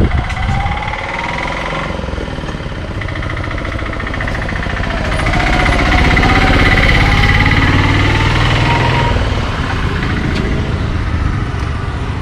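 A heavy diesel road vehicle passing close by, its engine running with a rapid knocking rattle. It grows louder to a peak past the middle, then fades.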